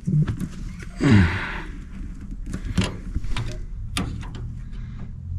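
Clicks and taps of hand tools working on the loose wire connections inside an electric furnace, with a short falling whoosh about a second in and a scatter of sharp clicks later.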